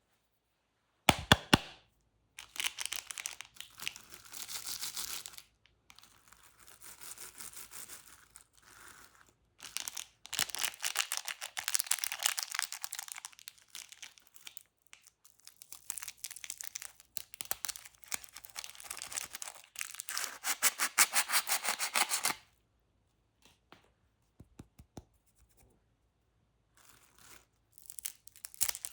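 Plastic candy wrappers being crinkled and torn open, in long stretches of dense rustling with short pauses, after a few sharp clicks about a second in. The rustling drops to scattered ticks for a few seconds before picking up again near the end.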